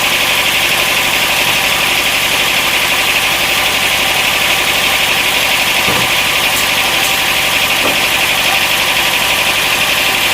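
Sawmill machinery running steadily: an engine with a continuous high-pitched hum over it.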